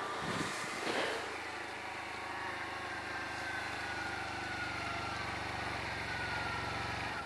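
Arctic Cat quad's diesel engine running steadily at idle.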